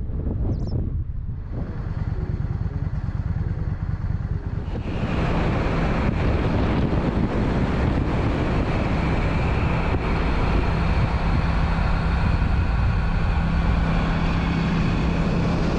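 Motorcycle engine running steadily on the move, with wind and road noise over it. The noise gets fuller and louder about five seconds in.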